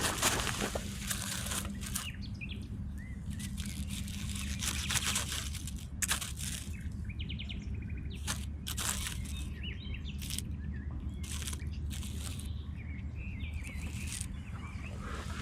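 Small birds chirping and trilling faintly over a steady low hum, broken by a string of short, sharp crunches and snaps.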